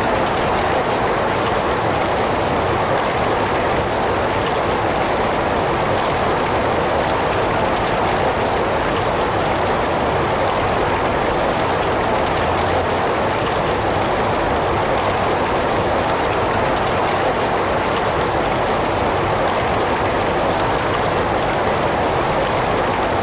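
Heavy rain falling in a steady, unbroken hiss, even in loudness throughout.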